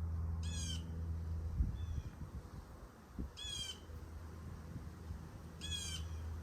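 Blue jay calling three times, each a short, harsh, buzzy call, an unusual call for it. Under it runs a low steady rumble, with a couple of dull thumps.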